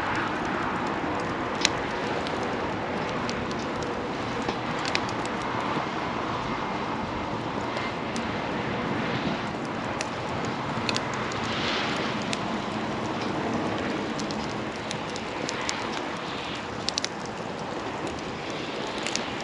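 Wood campfire burning: scattered sharp crackles and pops over a steady rushing noise.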